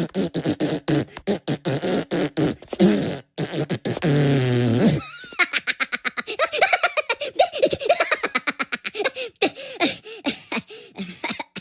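Comic vocal sound effects: a fast string of short, chopped squeaks and calls that bend up and down in pitch, with a low buzzing sound about four seconds in.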